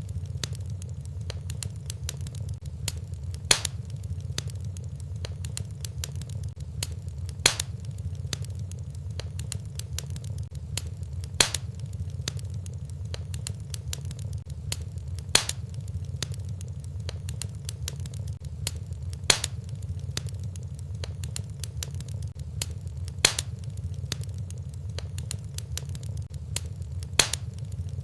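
Fireplace fire crackling: a steady low rumble with many small crackles and a louder sharp pop about every four seconds, evenly spaced as in a short repeating loop.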